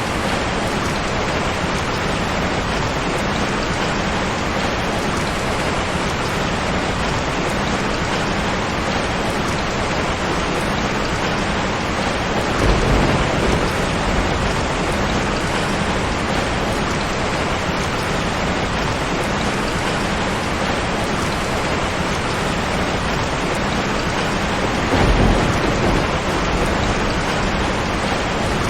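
Steady heavy rain falling, with two short low rumbles of thunder, one a little under halfway through and another near the end.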